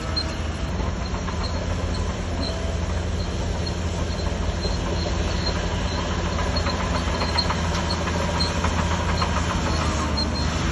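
Shantui DH17C3 crawler bulldozer's diesel engine running steadily with a deep hum. From about six seconds in, a rapid clicking and clanking of metal joins it.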